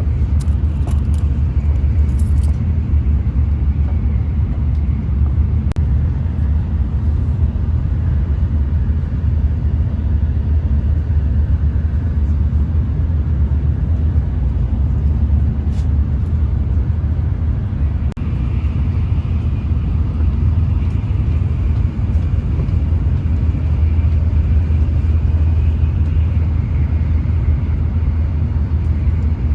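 Steady low rumble of a Shinkansen bullet train running at speed, heard from inside the carriage. A faint higher whine joins in about two-thirds of the way through.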